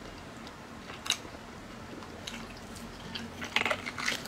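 A person chewing and biting meat off a lamb leg, with soft wet mouth clicks, a few scattered at first and then several close together near the end.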